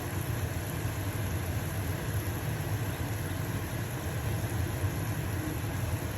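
Stove-top range hood fan running steadily with a low hum, over the sizzle of a pancake frying in a pan.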